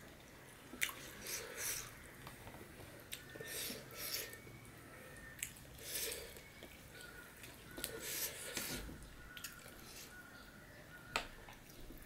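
Close-miked eating of rice and curry by hand: wet chewing and mouth noises in short bursts every second or two. There is a sharp click about eleven seconds in.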